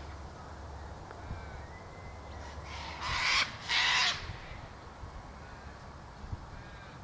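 Two loud, harsh bird calls, caw-like, one right after the other, each about half a second long.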